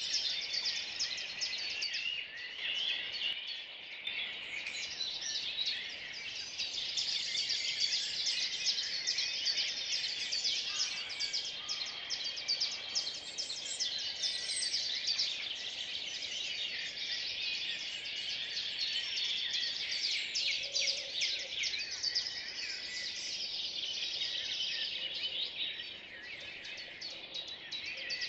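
Early-morning songbird chorus: many birds singing and calling over one another in a dense, continuous wash of high chirps.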